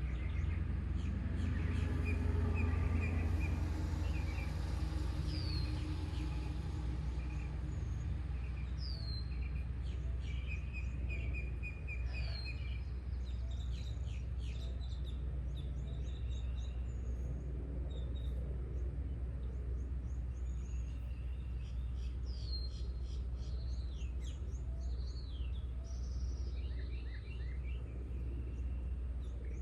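Several songbirds singing and calling: repeated short falling whistles, a few trills and quick high chips, over a steady low rumble.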